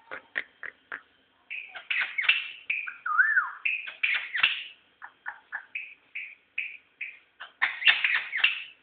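A caged songbird singing a varied phrase of short chirps and clipped notes, with one whistled note that rises and falls about three seconds in and a quick dense run of notes near the end.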